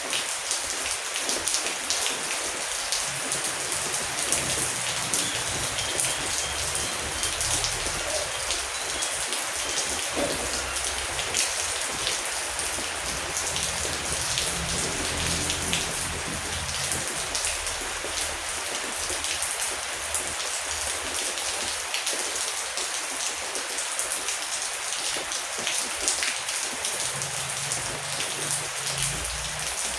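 Heavy rain falling steadily, with many individual drops pattering sharply on a surface.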